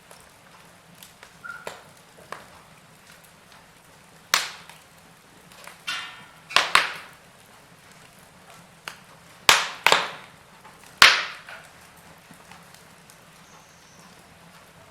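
Wood fire in a fireplace crackling, with small ticks and a handful of loud, sharp pops scattered through, the biggest near the middle.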